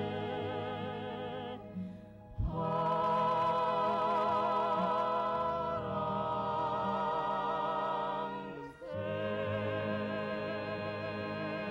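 A mixed vocal quartet sings long held notes with vibrato over instrumental accompaniment. The sound breaks off briefly about two seconds in and again near nine seconds, each time starting a new held chord.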